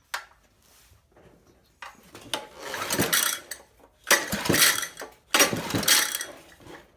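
Honda 200cc single-cylinder small engine pulled over three times on its recoil starter, each pull a loud rasping crank of about a second, and it does not fire. The owner puts the no-start down to low compression from stuck piston rings.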